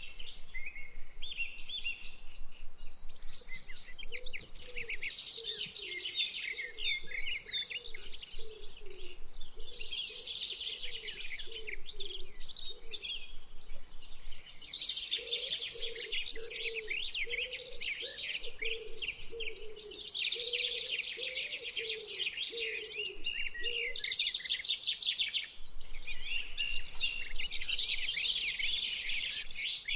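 A chorus of small birds chirping and singing in quick high trills, with a lower, repeated wavering call joining in twice for several seconds at a time.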